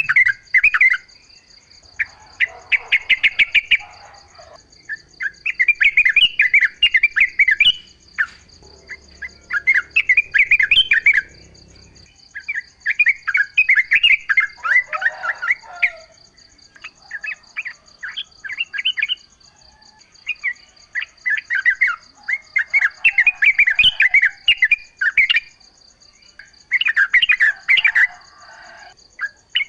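Yellow-vented bulbul (trucukan) singing: short bubbling, chattering phrases of a second or two, repeated every few seconds. A steady high buzz runs underneath.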